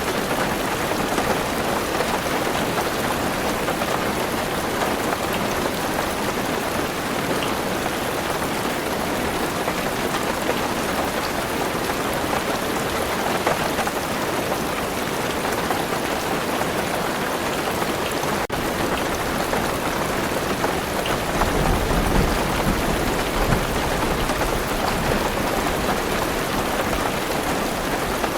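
Heavy rain drumming steadily on a car roof, a dense hiss. About three-quarters of the way in, a low rolling rumble of thunder joins it and carries on.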